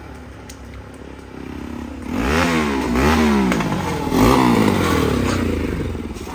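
Bajaj Pulsar NS200's single-cylinder engine idling, then blipped three times in quick succession, each rev rising and falling in pitch, the last the loudest, before it settles back toward idle.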